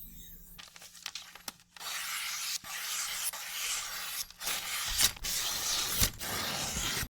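Pioneer Woman 8-inch chef's knife being sharpened: a series of long scraping strokes of the blade, each a second or more, with brief breaks between them and two sharper knocks in the second half. The sound cuts off just before the end.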